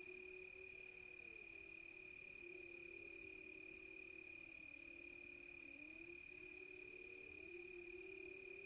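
Faint night ambience: crickets trilling in a steady high tone with short repeated chirps above it, under several distant wolves howling together in overlapping low tones that slowly rise and fall.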